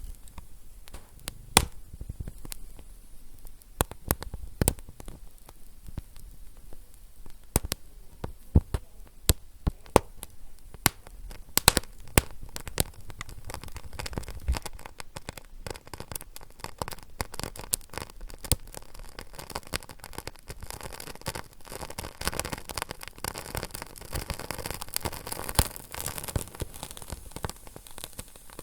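Fire crackling: sharp, irregular pops and snaps over a soft hiss, growing busier and denser in the second half.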